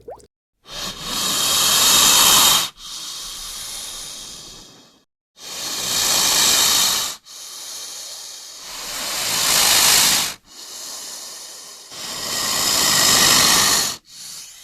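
Snake hissing in long breaths: four loud hisses, each followed by a softer hiss as it draws breath.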